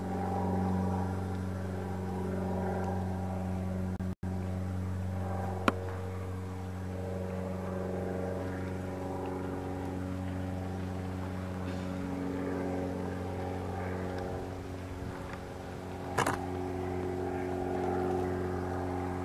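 An engine running steadily at one unchanging pitch, with no revving. A sharp click comes about six seconds in and another near the end.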